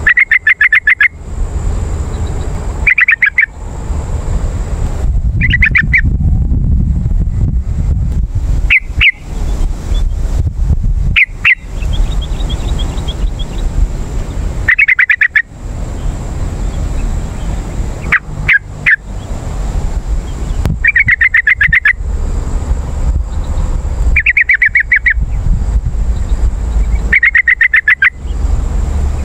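Yellow-vented bulbul (trucukan) song: short, rapid bubbly phrases about a second long, repeated every two to three seconds, played as a lure call. A steady low rumble runs underneath.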